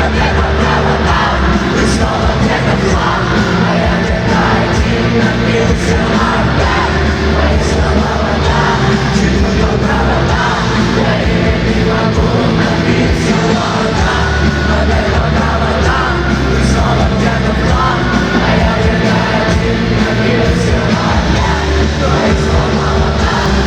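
Live rock band playing loud and without a break: a singer over full band with heavy bass and drums.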